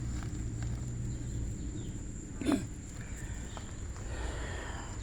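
Backyard ambience: a steady, high-pitched insect drone over a low rumble, with one brief pitched sound about halfway through.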